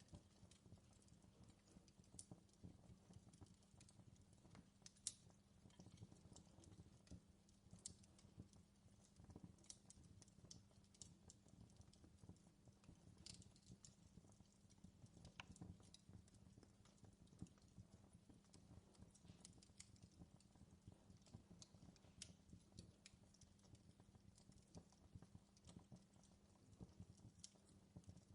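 Faint wood fire in a fireplace crackling: irregular small pops and snaps over a low steady rumble.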